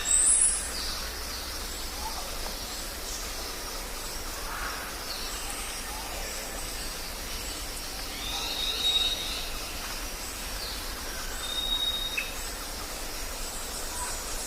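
Jungle ambience: several birds calling in short high whistles and chirps over a steady hiss of background noise, with a loud high call right at the start and another about nine seconds in.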